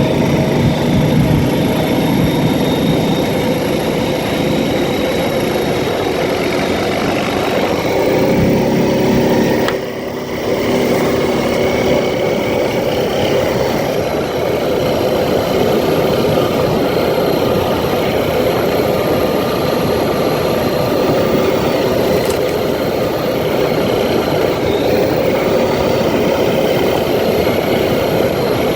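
ATV engine running steadily while being ridden, its pitch shifting with the throttle, with a brief drop in level about ten seconds in.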